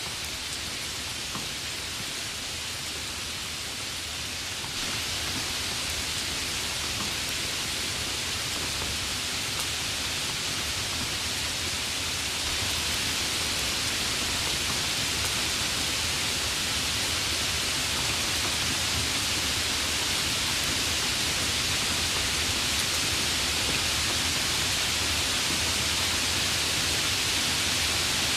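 Steady rain, an even hiss with no separate drops or thunder standing out. It gets a little louder about five seconds in and again about twelve seconds in.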